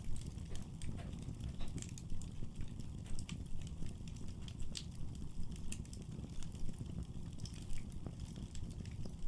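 Firewood burning in a fireplace: irregular sharp crackles and pops over a steady low rumble of the fire.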